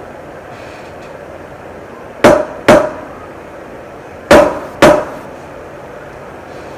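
Four sharp knocks in two pairs, each with a brief ring: a drink bottle with a stuck cap being banged against a hard surface to loosen it, the way a stuck pickle jar lid is knocked loose.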